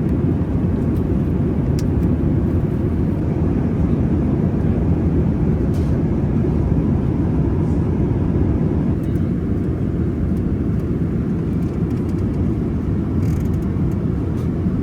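Passenger airliner in flight, a steady loud low rumble of jet engines and airflow.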